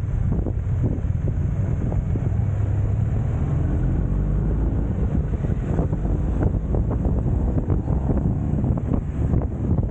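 Heavy wind buffeting the microphone, a steady low rumble, with scattered short knocks throughout and a faint rising engine-like note around the middle.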